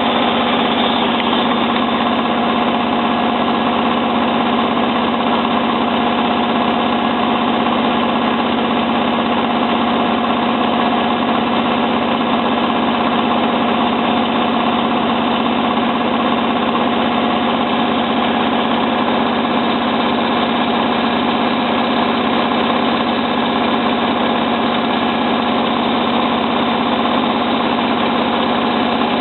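Hotpoint 9534A washing machine spinning, a loud, even motor hum with a strong low tone that holds steady throughout.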